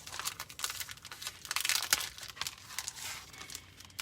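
A silkscreen stencil and its packaging crinkling and rustling as they are opened and handled, in a run of quick crackles that are loudest about two seconds in.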